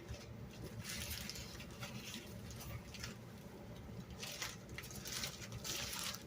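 Packing material in a shipping box being handled and rustled, in several short irregular crinkling bursts over a low background hum.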